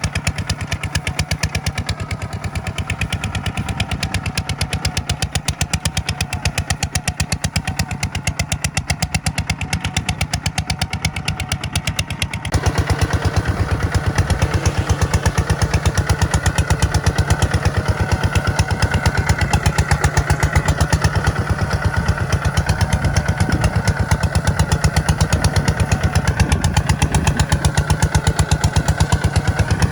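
Tractor diesel engine running steadily with an even, rapid knock. About twelve seconds in it abruptly becomes louder and stays at the higher level.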